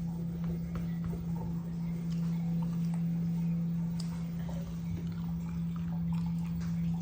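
LG WT16WV6 16 kg washing machine running with a steady low hum, with scattered light clicks over it.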